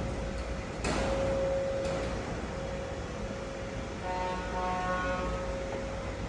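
Large wood-cutting saw machinery running with a steady hum and a constant whine. Two sharp knocks come about one and two seconds in, and a higher whine joins about four seconds in.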